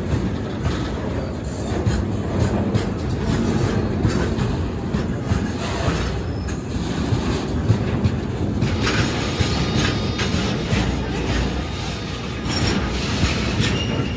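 A train passing close by on the rails, its wheels clattering steadily over the rail joints, with a faint high wheel squeal joining about nine seconds in.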